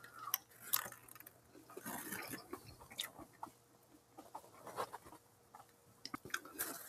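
A person chewing a mouthful of chicken sandwich, with faint, scattered wet mouth clicks and smacks.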